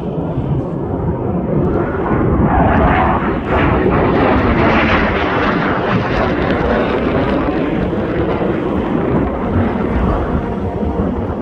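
Blue Angels F/A-18 Super Hornet jets flying past in a loud, steady jet roar. The roar swells and is at its loudest and brightest about three to five seconds in.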